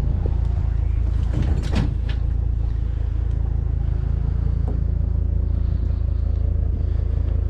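Pickup truck engine idling with a steady low rumble, with a short burst of knocks and clatter about one and a half seconds in as scrap is fitted into the truck bed.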